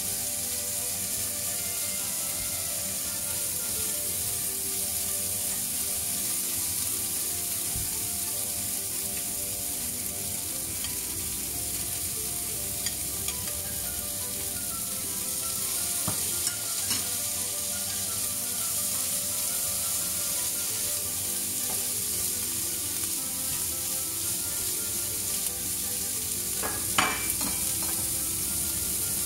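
Sausage, onion, peas and sweetcorn sizzling steadily in a hot frying pan as they are stir-fried, with a few knocks of a utensil against the pan, the loudest near the end.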